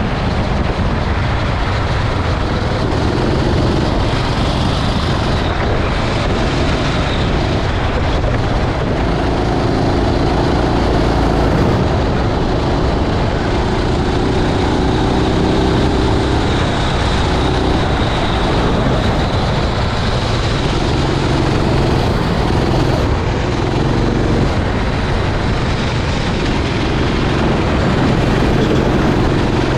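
Rental racing kart's engine running at race pace under heavy wind rumble on the microphone, its note rising and falling as the kart accelerates and slows.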